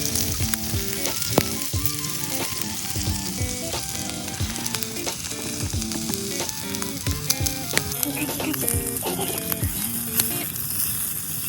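Meat sizzling and crackling steadily as it grills over a fire pit, with scattered small pops. Faint guitar background music plays under it and fades out near the end.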